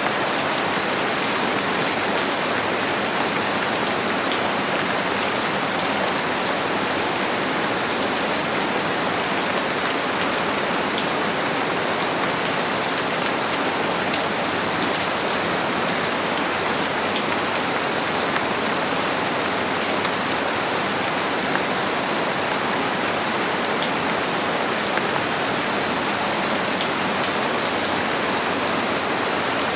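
Steady rain falling, an even hiss with fine ticks of individual drops, unchanging throughout.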